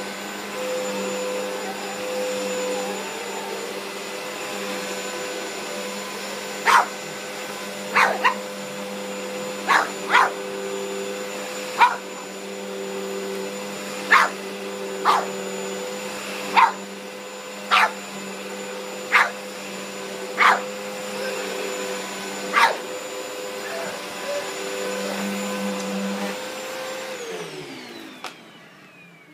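A vacuum cleaner runs steadily while a puggle barks at it, about a dozen short, sharp barks spread through the middle. Near the end the vacuum's motor winds down, falling in pitch.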